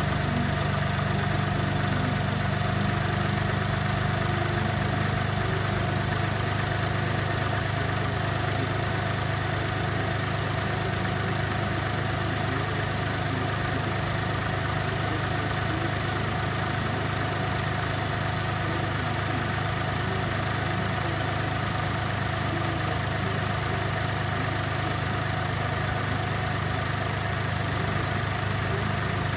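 Car engine idling steadily with the air conditioning running, a constant low hum. A slightly higher hum drops out about five seconds in.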